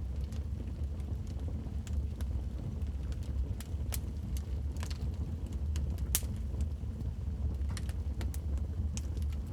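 Wood fire burning in a fireplace, crackling with irregular sharp pops over a steady low rumble; the loudest pop comes about six seconds in.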